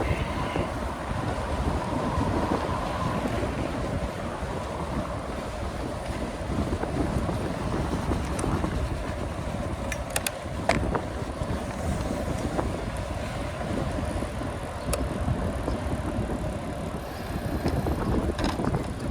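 Wind buffeting the microphone over a steady low road rumble while riding a bicycle, with a couple of sharp clicks about ten seconds in.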